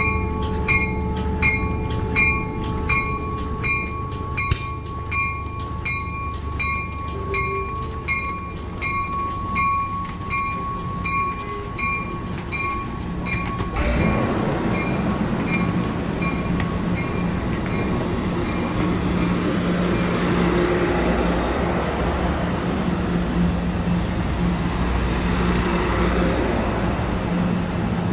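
A bell rings with a steady rhythm of strikes and stops about halfway through. A train then runs by, with a diesel engine hum and rumbling wheel and rail noise that grows louder.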